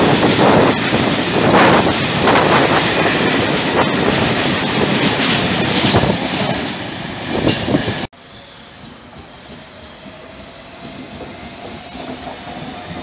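Freight train of hopper wagons rolling past at close range, its wheels clattering rhythmically over the rail joints. It cuts off suddenly about eight seconds in, giving way to the fainter, steady sound of an ETR 700 high-speed electric train passing on a far track, growing louder near the end.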